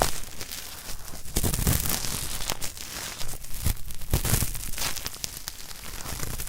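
A cotton swab rubbed firmly inside a microphone's ear, in irregular scratchy, rasping strokes that imitate the scrubbing of hard earwax.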